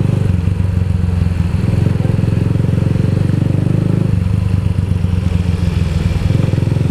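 Keeway Cafe Racer 152's single-cylinder engine running steadily as the motorcycle rides along in traffic, a continuous low pulsing rumble. The note shifts slightly about four seconds in.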